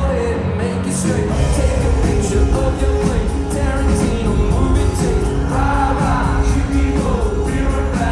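Live rock band playing a song, with a sung melody over a steady beat and a full low end.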